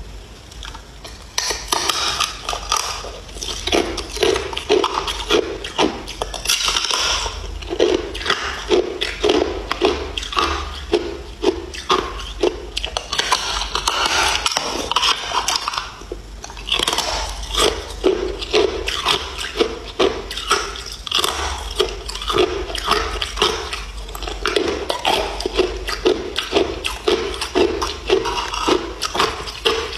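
Ice being chewed close to the microphone: a fast, regular run of crisp crunches as the ice cubes break between the teeth. It starts about a second and a half in and eases briefly about halfway through.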